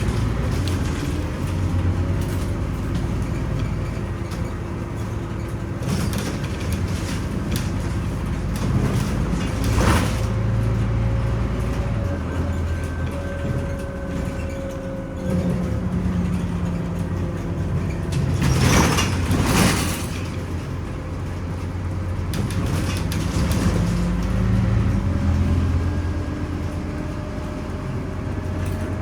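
Scania Omnicity city bus under way: its diesel engine running, rising and falling in pitch as it pulls away and shifts, over a steady low hum. Two short hissing rushes break through, one about a third of the way in and a longer one about two thirds through.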